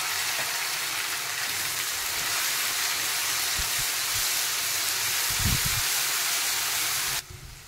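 Ginger-garlic paste and fried onions sizzling in hot oil in a kadhai while being stirred with a spatula, a steady sizzle that cuts off suddenly near the end.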